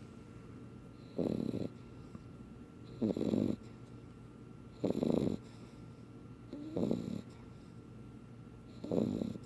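Beagle puppy snoring in its sleep: five short snores at an even pace, about two seconds apart.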